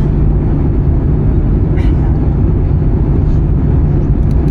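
Cabin noise inside an Airbus A320-214 in flight: a steady, loud low rumble of engines and airflow, with a short click about two seconds in.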